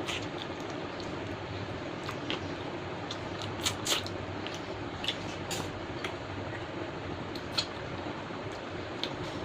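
Close-up eating sounds: toasted bread crunching and being chewed in irregular crisp crackles, the loudest a little under four seconds in, over a steady background hiss.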